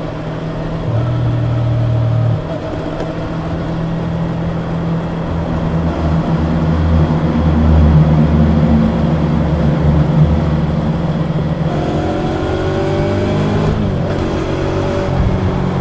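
Yamaha YZF-R25's parallel-twin engine running through its stock exhaust under way, a steady engine note shifting with the throttle. Near the end the pitch rises, then drops sharply.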